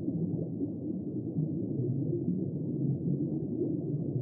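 Steady, muffled low rumbling noise with no distinct events.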